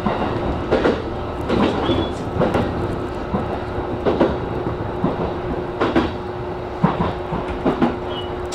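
JR East E233 series electric train running along the track: a steady rolling rumble with a faint hum, and wheels clacking over rail joints roughly once a second, often in quick pairs.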